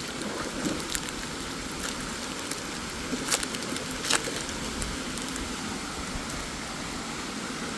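Steady rushing of a waterfall, with two light clicks a little past the middle.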